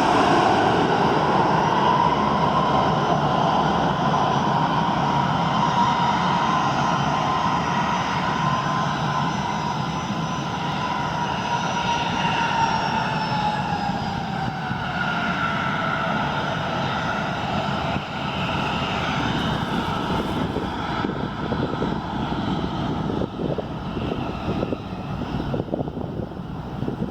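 Jet airliner passing close by, its engine whine held high and then slowly falling in pitch as it goes past, leaving a fading rumble. Wind buffets the microphone near the end.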